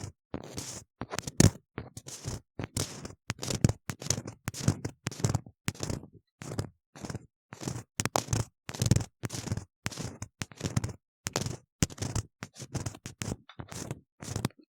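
Ear-cleaning tool scraping and scratching inside a silicone ear model, close to the microphone, in quick uneven strokes of about two a second.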